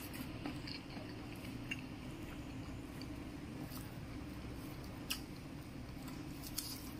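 Close-up chewing of chicken liver and gizzard with rice, with soft moist squishing as fingers mix rice on a plate, over a steady low hum. Two sharp clicks stand out in the second half.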